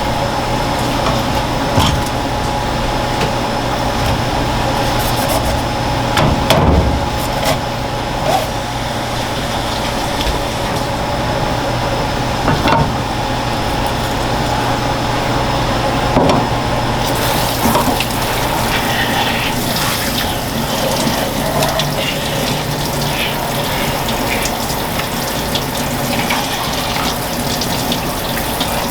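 Tap water running steadily into a sink, with a few sharp knocks now and then.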